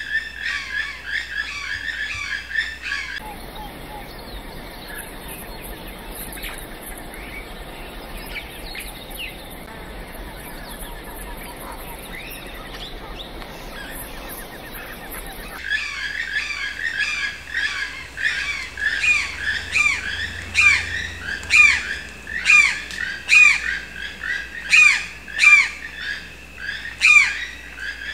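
Forest birds calling. Short falling chirps at first, then a few seconds of softer forest background with a thin high insect buzz. From about halfway, a bird gives loud, repeated, falling squawks, roughly one a second.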